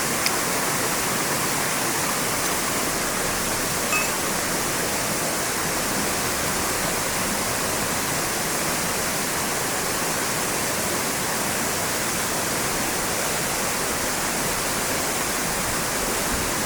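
Steady rush of a fast-flowing mountain stream and small waterfall, an even unbroken wash of water noise, with a faint tick about four seconds in.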